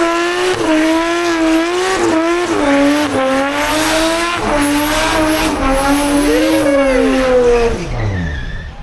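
Car engine held at high revs in a burnout, the revs wavering up and down over spinning tyres, then dropping away sharply near the end.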